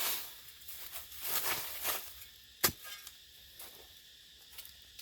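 Soft rustling and scraping handling noises in the first two seconds, a single sharp click or snap a little past halfway, then only faint rustle.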